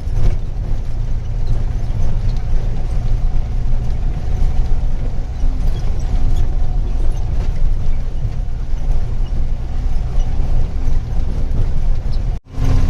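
Truck engine running with steady low rumble and road noise, heard from inside the cab. The sound breaks off for a moment near the end.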